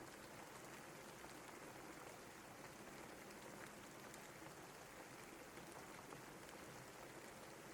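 Steady, faint rain falling: an even hiss of rainfall with scattered small drop ticks.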